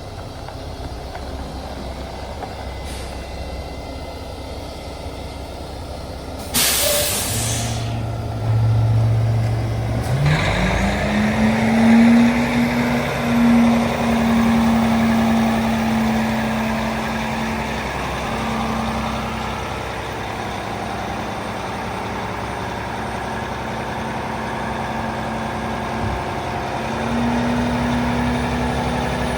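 Mack MP8 diesel engine of a dump truck idling, with a loud hiss of released air about six seconds in. About ten seconds in the engine speeds up and then holds steady at the higher speed.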